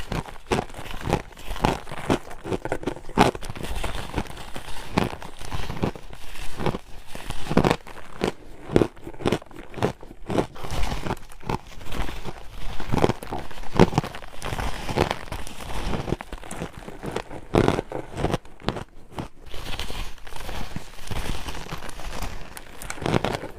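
Close-up chewing and crunching of ice: many irregular sharp crunches, one after another, as the ice is bitten and ground between the teeth.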